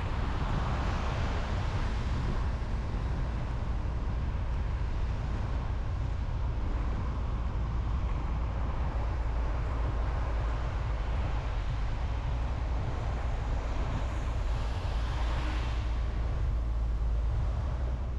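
Car driving on a road: steady low road and tyre rumble with an even hiss, swelling briefly about a second in and again near the end.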